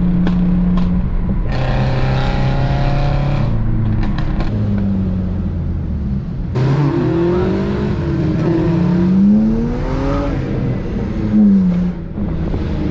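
Car engines running, with one revved up and down several times in the second half.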